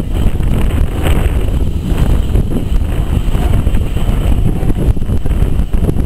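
Moving steam-hauled passenger train heard from its carriage window: a steady, loud low rumble with wind buffeting the microphone.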